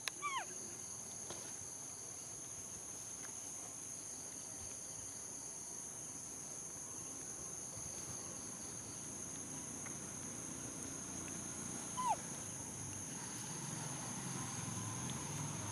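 Steady high-pitched drone of insects such as crickets or cicadas, with two short calls that drop quickly in pitch, one right at the start and one about 12 seconds in.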